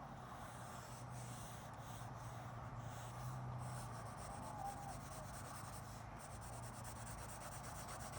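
Pen scratching on paper as loose sketch lines are drawn, faint and continuous, over a steady low hum.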